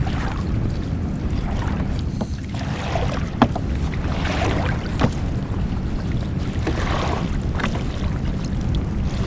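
Small fishing boat's engine running steadily, with wind on the microphone. A couple of sharp knocks ring out, the loudest about three and a half seconds in, and brief swishing noises come and go.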